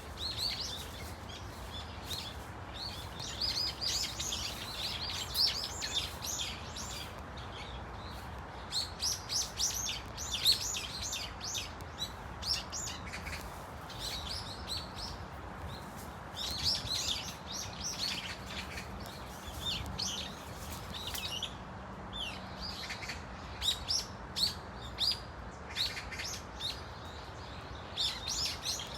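A flock of brown-eared bulbuls calling: many short, sharp chirps and squeals overlapping in clusters with brief lulls between them, over a steady low background hum.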